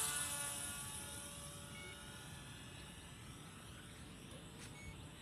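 RC model airplane's motor and propeller, a buzzing whine that drops in pitch and fades over the first couple of seconds as the plane flies away after a low pass.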